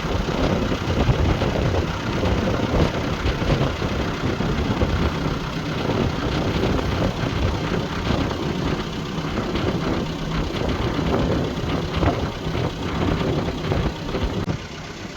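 A sailboat's engine running steadily under way, mixed with wind buffeting the microphone and rushing water. The sound drops somewhat in level just before the end.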